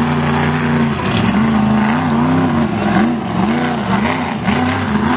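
A large vehicle engine, most likely a monster truck's, running at a steady speed. From about a second in it is blipped up and down over and over, roughly one and a half revs a second.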